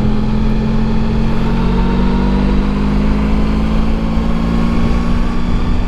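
Motorcycle engine running at a steady cruising speed, under a constant rush of wind and road noise.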